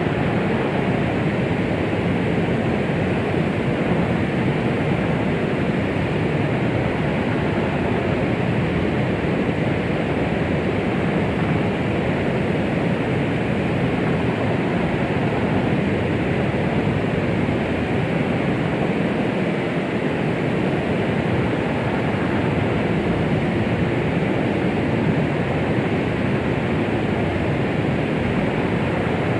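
Steady white-noise track used as a 'womb sound' to settle a baby: an even, unchanging rush, fuller in the low and middle range with little high hiss.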